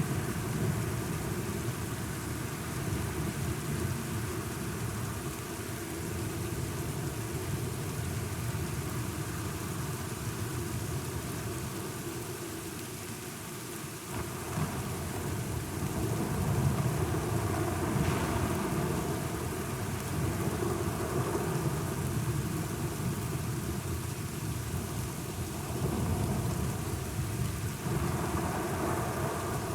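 Thunderstorm: steady rain with low rolling thunder underneath, the rumble swelling about halfway through and again near the end.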